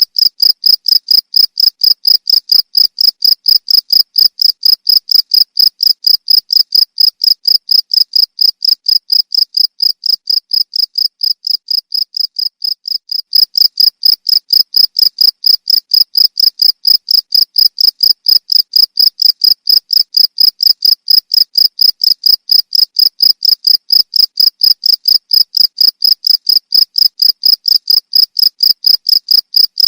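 Cricket chirping in a steady, even rhythm of about three to four high-pitched chirps a second, dipping slightly softer for a few seconds around the middle.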